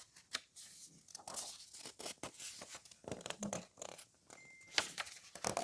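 Faint rustling and crinkling of book pages being handled, with scattered small clicks.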